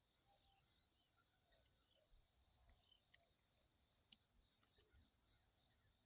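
Near silence: faint outdoor ambience with a steady high hiss and scattered faint clicks.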